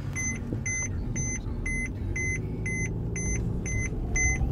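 Electronic warning chime inside a Mercedes-Benz car, beeping in short even tones about three times a second and stopping near the end, over the low hum of the idling engine.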